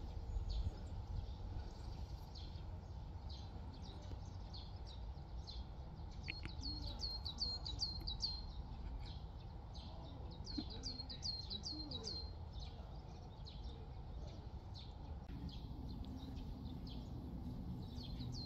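A small songbird singing a phrase of six or seven quick, high notes, repeated about a third of the way in, around two-thirds in and again at the end, with scattered short chirps between, over a steady low background noise.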